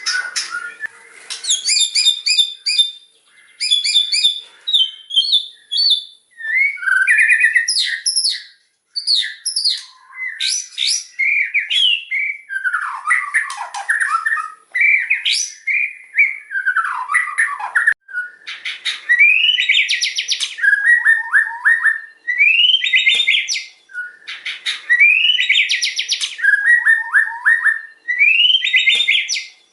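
White-rumped shama singing loudly: a varied run of whistled phrases, slurred glides and fast trills. In the second half one phrase repeats about every three seconds, a rising sweep followed by a quick falling trill.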